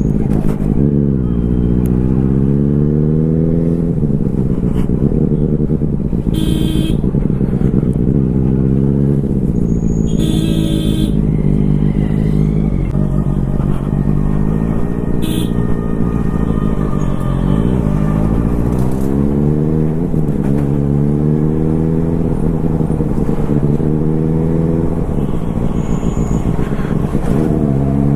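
Benelli superbike's engine under way, its revs climbing through each gear and dropping back at the shifts, over and over. A few brief high-pitched noises cut in around a quarter and a half of the way through.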